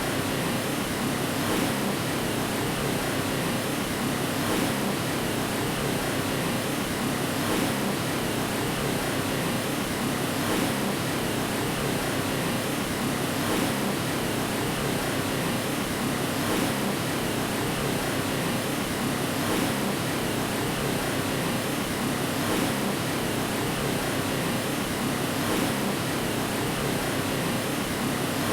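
Steady white noise, an even hiss with no tone or rhythm, played as a sleep sound for a baby.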